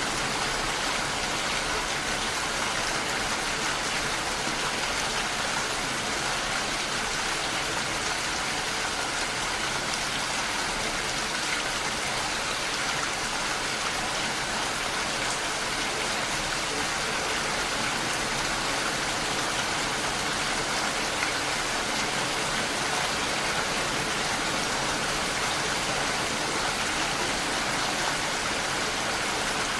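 Steady heavy rain: an even hiss of rainfall with no breaks or single drops standing out.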